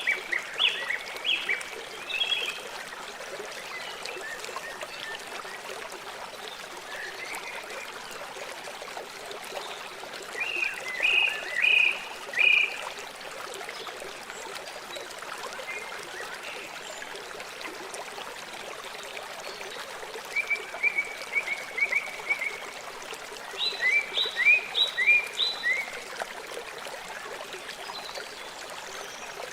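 River water flowing steadily, with short runs of quick repeated chirping calls rising above it several times, the loudest near the end.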